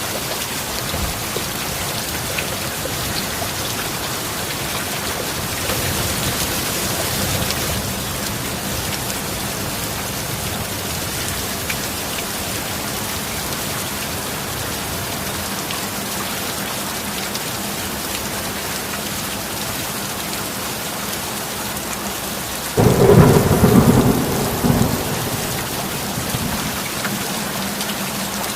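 Steady heavy rainfall. About three-quarters of the way through, a sudden loud clap of thunder breaks in and rumbles for about two seconds before the rain carries on alone.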